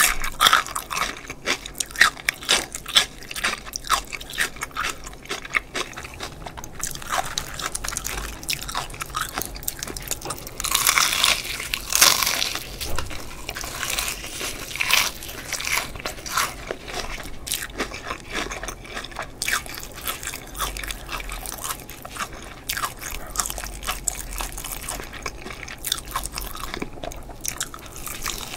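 Close-miked biting and chewing of crispy fried chicken drumsticks, the battered skin crunching in quick sharp crackles, with a denser stretch of crunching about eleven seconds in.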